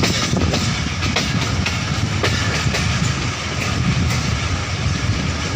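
A passenger train running along the track: a steady rumble of the wheels and carriage, with scattered rail clicks.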